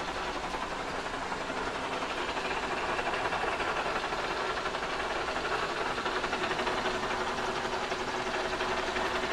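Kearney & Trecker 2HL horizontal mill cutting cast iron with a 2-flute end mill: a steady, grinding machining noise over a faint steady hum, growing slightly louder about three seconds in.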